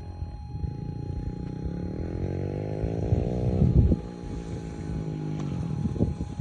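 Small off-road vehicle engine revving, its pitch climbing for a few seconds and then dropping off sharply about four seconds in, before running on at a lower pitch.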